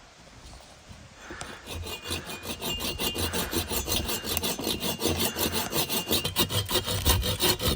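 Quick, regular rasping strokes of a hand tool working a material, starting about a second in and growing louder.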